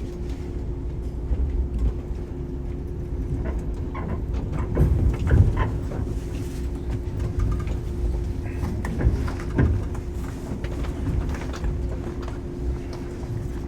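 Running sound heard inside a Shinano Railway 115 series train: a steady low rumble from the motors and bogies under a constant hum, with scattered knocks and clatters, loudest about five seconds in and again near ten seconds.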